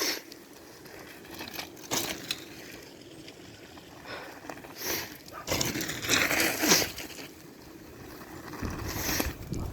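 Snow crunching and scraping in irregular bursts, loudest about midway through.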